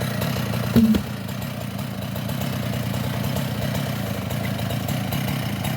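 Two-stroke chainsaw engine idling steadily, with one brief loud sound a little under a second in.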